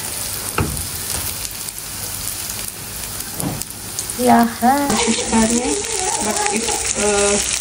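Egg and vegetable mixture frying in hot oil in a non-stick pan, a steady sizzle, while a silicone spatula stirs and pushes it around.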